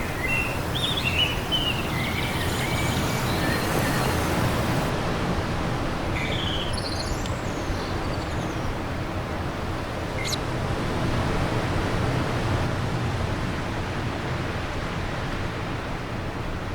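Steady wind blowing, with songbirds chirping over it: a run of calls in the first few seconds, more about six to eight seconds in, and one quick chirp about ten seconds in.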